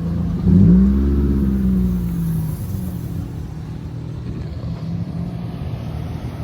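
Car engine running; about half a second in it revs up, then the pitch eases back down over a couple of seconds to a steady hum.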